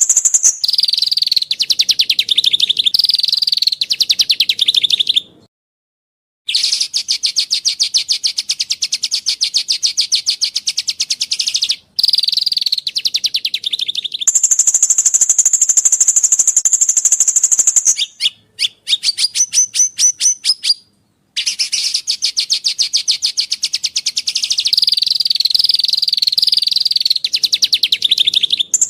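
A songbird singing long, very fast rattling trills, some high and thin, some lower, each held for several seconds with brief breaks between phrases.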